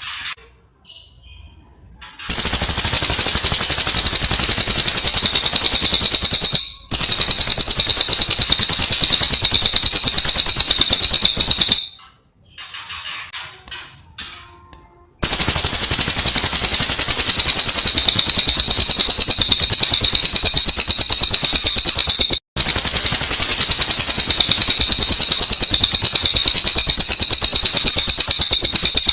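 Cililin bird singing loud, very fast high trills. Each trill runs for several seconds, sagging slightly in pitch. There are two long bouts, with a few soft chirps in the pause between them.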